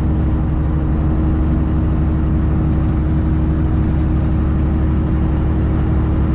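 Semi truck's diesel engine running steadily at highway speed, with road noise, heard inside the cab. A faint high whine rises slightly through it.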